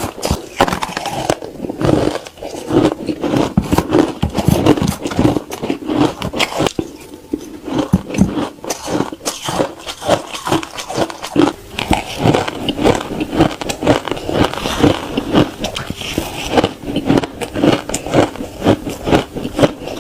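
Ice being bitten and chewed: a dense, irregular run of sharp crunches and cracks, with a brief lull about seven seconds in.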